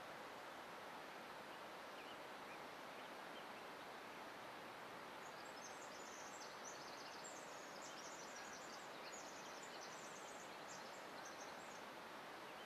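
Steady outdoor background hiss, with a run of high, thin bird chirps starting about halfway through and stopping near the end.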